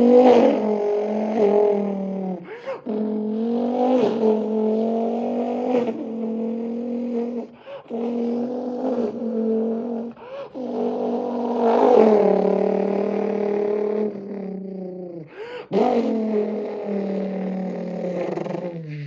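A man's voice imitating a car engine by mouth, a buzzing tone held and bent in pitch like an engine revving through the gears. It breaks off briefly every few seconds as if at gear changes, and falls in pitch at the end. The impression is of an Audi TT RS and its turbocharged five-cylinder engine.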